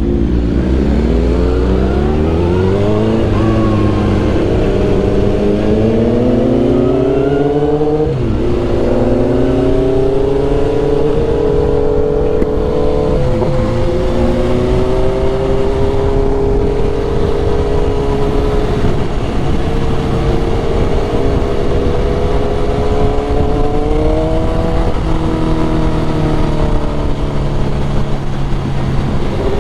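2001 Suzuki GSX-R1000's inline-four engine pulling away, its pitch rising through the gears over the first several seconds, then running at a steady cruise with a short rise near the end. A constant rush of wind noise runs under it.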